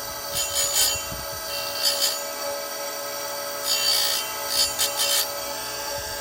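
Oregon 410-120 bench chain grinder running with a CBN wheel, grinding chainsaw cutters in short swipes: a steady motor hum with brief bursts of high, hissing grinding noise, about a second in, around two seconds in, and twice more between four and five seconds.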